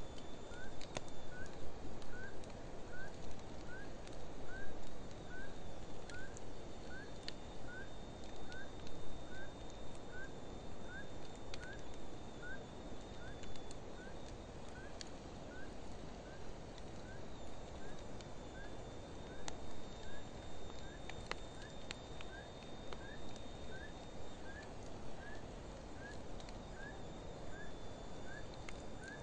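Wood fire burning in an open fire pit: a steady low rush with a few sharp crackles and pops. Over it, a small animal gives a short rising chirp again and again, a little more than once a second.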